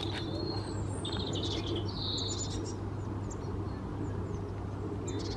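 Small birds chirping, with a short trill about a second in and scattered single chirps after, over a steady low hum.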